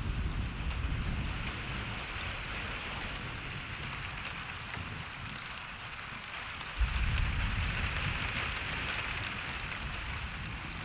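Steady rain falling, with thunder: a low rumble dying away over the first couple of seconds, then a new thunderclap starting suddenly about seven seconds in and rumbling off.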